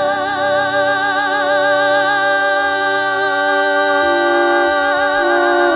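A singer holds one long note with an even vibrato on the word "making" in a live song, over lower held accompaniment notes that shift pitch a few times.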